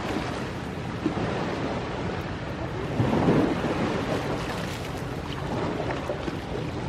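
Ocean waves washing on the shore as a steady rush that swells as a wave breaks about three seconds in, with a few sharp crackles from a bonfire.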